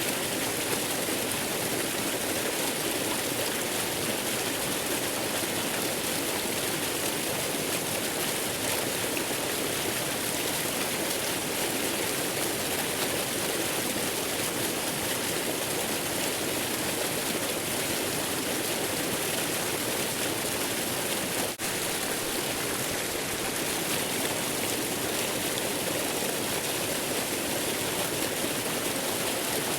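Steady, unbroken rushing of a waterfall, with a momentary dip in level about two-thirds of the way through.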